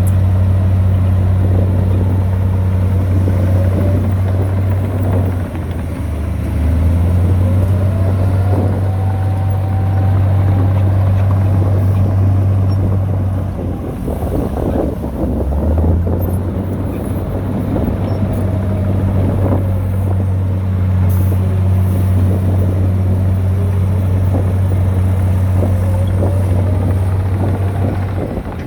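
Heavy earthmoving machine's diesel engine running steadily at a low pitch, with a fainter whine rising and falling above it. The engine note drops briefly twice: about five seconds in, and again near the middle.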